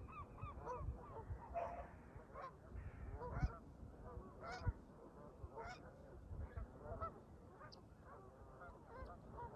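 Canada geese honking, many short calls in quick runs and scattered honks, with low gusts of wind rumbling on the microphone.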